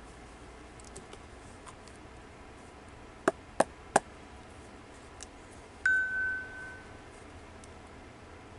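Three quick sharp knocks, then a small altar bell struck once, its clear ringing tone fading out over about a second.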